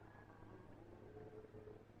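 Near silence: a faint steady low hum, with faint thin wavering tones above it.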